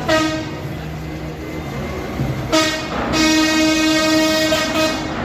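Truck air horn blasting: a short blast at the start, another about two and a half seconds in, then a long held blast of about two seconds, one steady pitch throughout.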